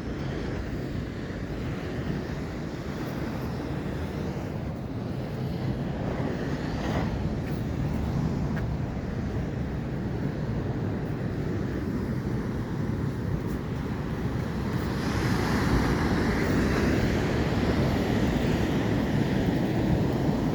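Atlantic ocean surf washing in, a steady noise with wind rumbling on the microphone; a louder wave breaks about three-quarters of the way through.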